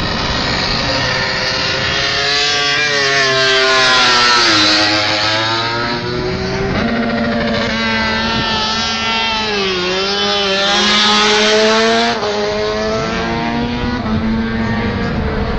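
MotoGP race motorcycles running at high revs, several engines overlapping, with the pitch climbing and then sweeping down as a bike goes past, twice, about four seconds in and again near eleven seconds.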